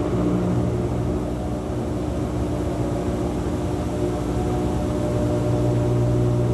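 Whirlpool washing machine spinning a very large load of towels: a steady motor hum over a constant low rumble from the loaded drum.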